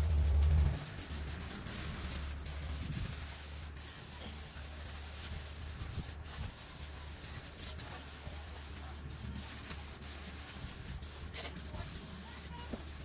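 Engine degreaser being sprayed over an engine bay: a steady spraying hiss over a low rumble, with a loud low thump in the first second.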